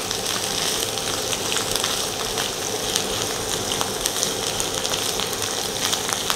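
Canned sliced mushrooms sautéing in melted butter in a frying pan: a steady sizzling hiss with small pops and crackles, stirred and turned with a spatula.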